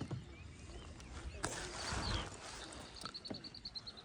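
Wind gusting across the microphone for under a second near the middle, then a small bird's quick, evenly pulsed high trill near the end.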